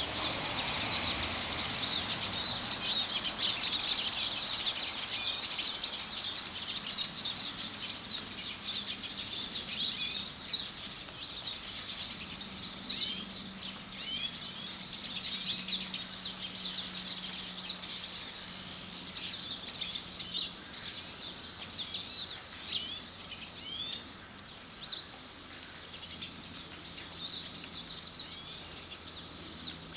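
Many small birds chirping and cheeping over one another, densest in the first ten seconds and thinning out after.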